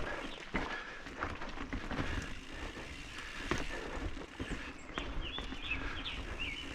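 Mountain bike rolling along a dirt singletrack trail: tyre and wind rumble with scattered clicks and knocks from the bike rattling over the ground. Birds chirp briefly in the second half.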